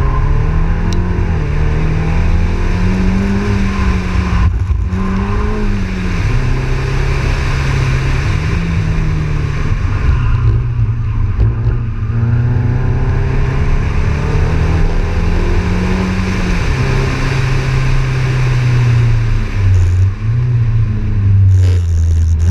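In-car sound of a Volkswagen Polo Cup race car's 1.4-litre engine driven hard through a course, its revs rising and falling again and again, with short drops about four and a half seconds in and again around ten to twelve seconds, over steady road and wind noise. Near the end the revs fall lower and go unevenly as the car slows.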